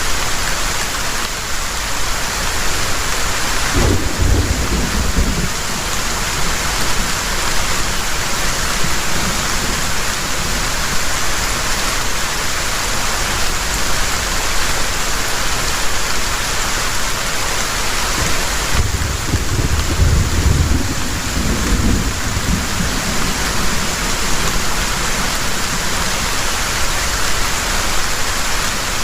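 Heavy rain falling steadily, with two low rolls of thunder, one about four seconds in and a longer one around twenty seconds in.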